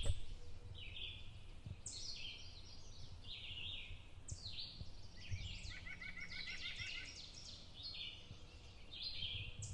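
Songbirds singing outdoors: short phrases of quick descending notes repeated every second or two, with a rapid trill of repeated notes near the middle, over a low steady rumble of outdoor background noise.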